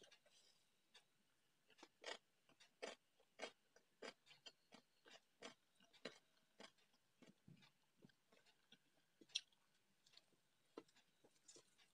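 Faint, close-up chewing of rice and chicken curry: a string of soft, irregular mouth smacks and small crunches.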